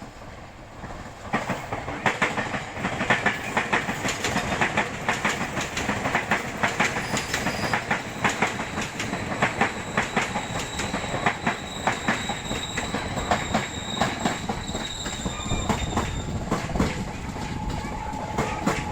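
A train passing close by, its wheels clicking rapidly over the rail joints. It comes in loud about a second in, and a thin high wheel squeal rides over it for a few seconds past the middle.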